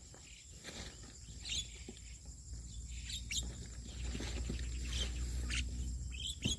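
Birds chirping in short, scattered calls, over a low rumble that grows louder about halfway through.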